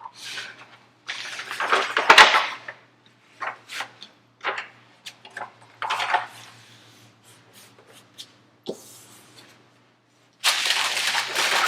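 Irregular rustling and handling noises of a diamond painting canvas and its plastic sheet being moved about, with a denser, continuous rustle near the end.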